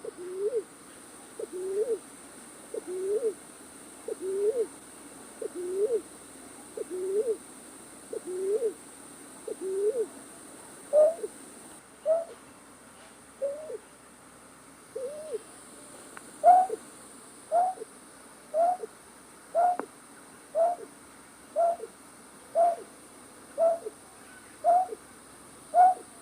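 Night-bird call of the kind used as a trapping lure: a single short hooting note, rising then falling, repeated about once a second. About ten seconds in, the notes become higher-pitched and louder.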